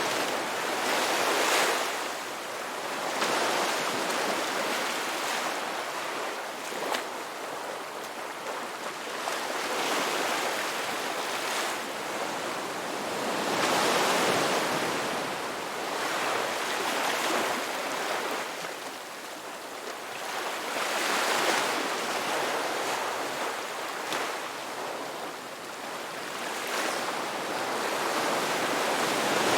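Ocean waves breaking and washing on a shore, a steady surf hiss that swells and ebbs every few seconds.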